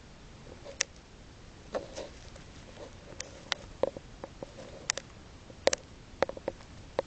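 Budgie pecking and nibbling: a scatter of about a dozen irregular sharp clicks and light taps.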